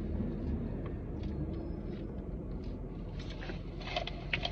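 Steady low hum of a car's engine idling, heard inside the cabin, with scattered small clicks and rustles, more of them near the end.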